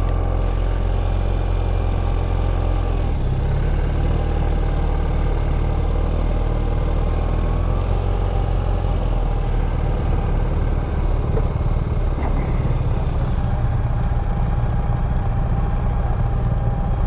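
BMW R1250 RT's boxer-twin engine running steadily while the motorcycle is ridden along a road, with the engine note shifting about three seconds in.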